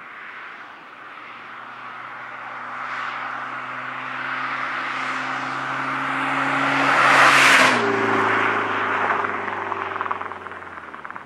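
Mazda MX-5 with a Postert aftermarket exhaust driving past: the exhaust note grows louder as the car approaches, peaks with a rush of tyre and wind noise about seven seconds in, then drops in pitch and fades as it moves away.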